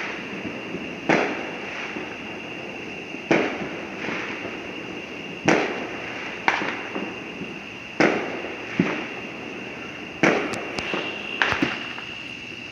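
Fireworks exploding: about ten sharp bangs at uneven intervals, one to two seconds apart, each trailing off in a rolling echo.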